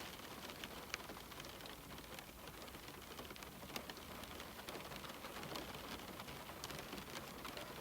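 Steady rain falling on a window pane: a dense, even patter with single drops ticking sharply here and there.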